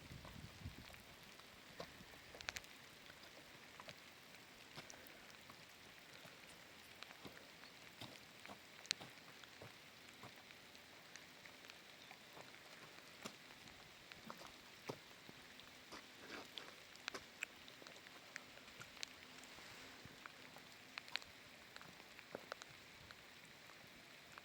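Light rain falling, a faint steady hiss with scattered drops ticking irregularly.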